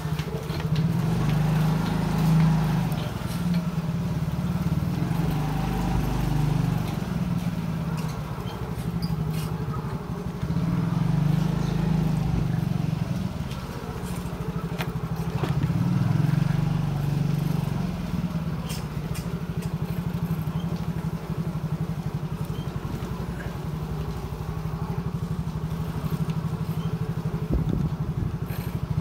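Motorcycle engine running steadily as the bike rides along, its level swelling and easing a few times with the throttle.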